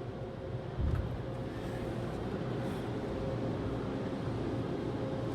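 Car engine running at low speed as the car creeps forward into an automatic car wash bay, heard from inside the cabin as a steady low rumble with a faint hum, and one dull thump about a second in.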